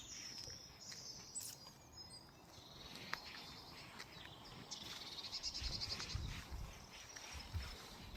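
Songbirds chirping, with a rapid trill of quickly repeated high notes in the second half.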